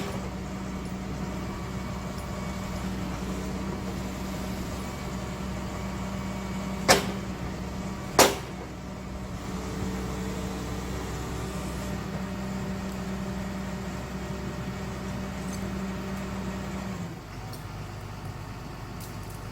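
Excavator's diesel engine running steadily, with two sharp knocks about a second apart near the middle. Near the end the engine drops to a lower, quieter idle.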